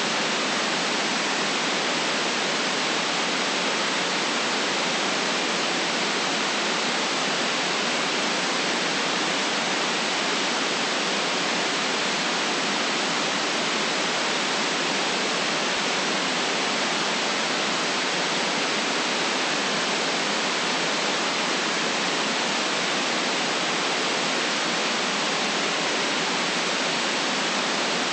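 Steady white noise: an even, unchanging hiss with no bass rumble and nothing above the high treble.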